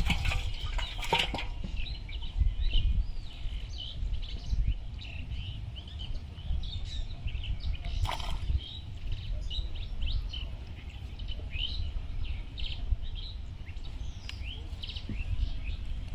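Small birds chirping repeatedly, short high calls coming one after another, over a steady low rumble, with a few sharp clicks near the start and one about halfway.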